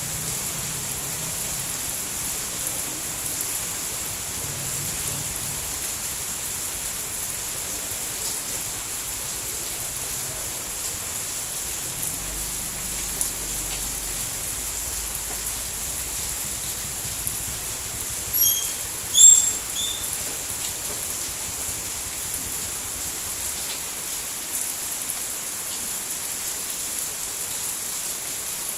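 Steady rain falling, an even hiss. A few short high chirps come about two-thirds of the way through; they are the loudest moment.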